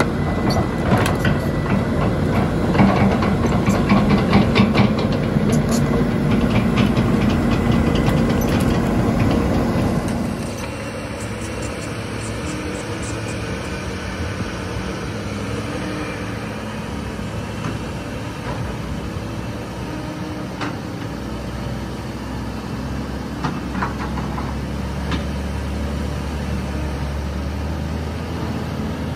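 Heavy diesel engine running, with rattling and clattering over it for about the first ten seconds, after which it settles to a steadier, lower hum.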